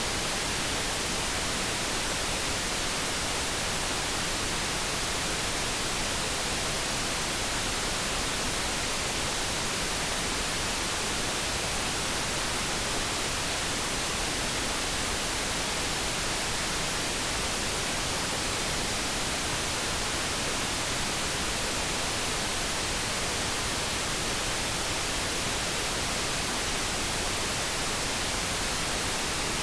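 Steady synthetic noise: an even, unchanging hiss with no tones or events in it.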